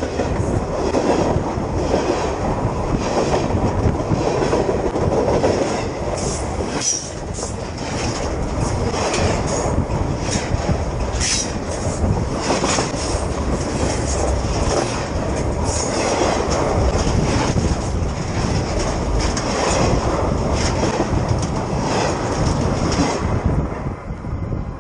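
Freight train cars rolling directly over a camera lying between the rails: a loud, continuous rumble with the clatter of steel wheels on the rails. It falls away about 23 seconds in as the last car clears the camera.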